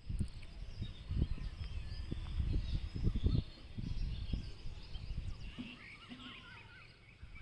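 Small birds chirping and calling, with short rising and falling chirps throughout, over irregular low rumbles that are strongest in the first half.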